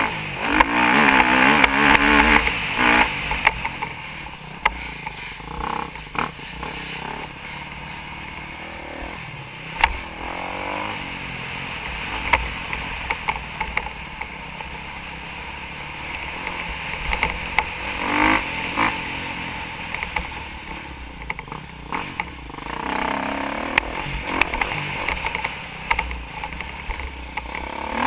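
Motocross bike engine revving up and falling back as the throttle is opened and closed, with loud bursts near the start and again in the second half. A steady rushing noise runs underneath, with scattered knocks and clatter.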